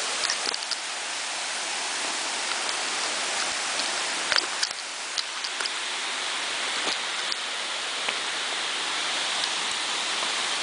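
Steady rushing of falling water from a tall waterfall, with a few scattered small clicks and knocks over it, the clearest a little over four seconds in.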